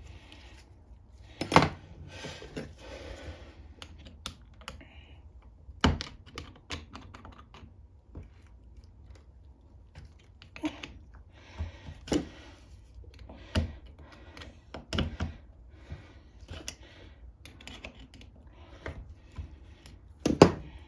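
Irregular clicks, knocks and short scrapes of hand tools working on a small-engine carburetor to pry a stubborn part loose, with sharper knocks about a second and a half in, around six seconds in, and near the end.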